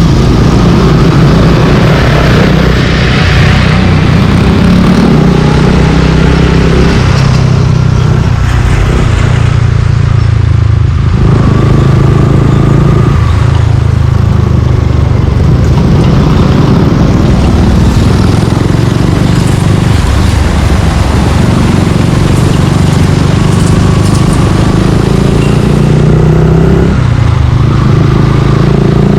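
Suzuki Gixxer 155's single-cylinder four-stroke engine running through a Yoshimura aftermarket exhaust while being ridden, its pitch stepping up and down every few seconds as the throttle opens and closes.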